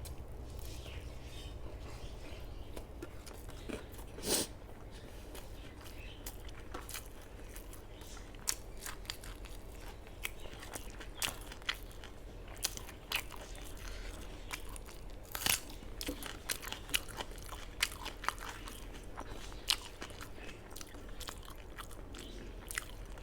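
A person chewing and biting food, with many short crunches and mouth clicks scattered through, the loudest about four seconds in and again around fifteen seconds in.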